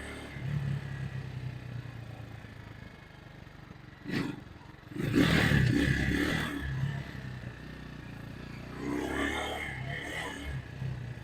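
Vitacci GTT250's 229cc single-cylinder four-stroke engine running, growing louder for a stretch about five seconds in and again near the end. A sharp knock sounds about four seconds in.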